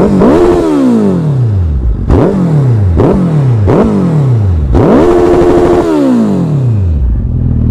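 Suzuki Hayabusa's inline-four engine, breathing through twin Two Brothers Black Series slip-on exhausts, revved in about six quick blips. Each blip rises sharply and falls back; the fifth is held for about a second, and the engine then settles to idle near the end.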